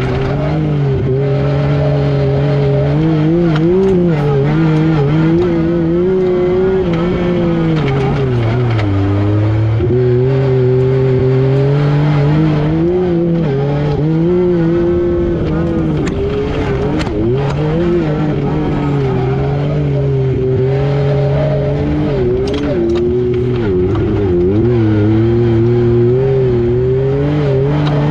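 Yamaha YXZ1000R SS side-by-side's three-cylinder engine running hard, its pitch rising and falling with the throttle, with a marked drop about nine seconds in.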